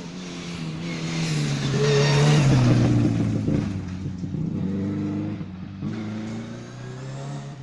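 Subaru rally car passing at full speed, its turbocharged boxer engine growing loud to a peak about two seconds in, the pitch dropping as it goes by, then revving on and fading into the distance.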